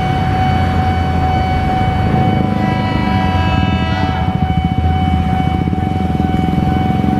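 KRL commuter electric train, an ex-JR 205 series, sounding one long, steady horn note over the low rumble of the train. A second, higher horn chord joins for about a second and a half midway.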